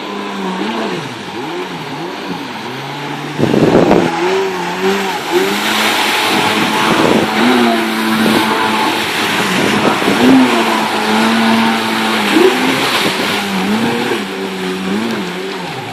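Kawasaki 750 SX-i stand-up jet ski's two-stroke engine revving up and down again and again. A loud rush of water noise comes in about three and a half seconds in and carries on under the engine.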